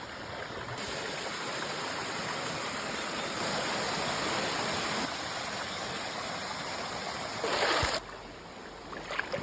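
Flowing stream water rushing steadily, with a brief louder surge just before it cuts off about eight seconds in.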